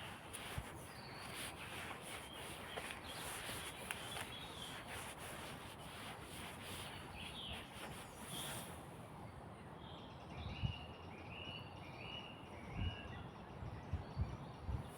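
Woodland ambience: a steady rushing hiss with crackling rustles, a small bird giving a run of short chirps about two-thirds of the way through, and soft low footstep thumps near the end.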